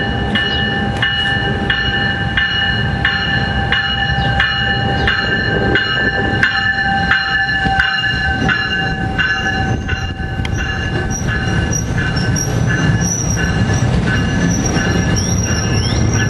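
A passing commuter train: a regular clicking about twice a second, with a steady high-pitched squeal held throughout.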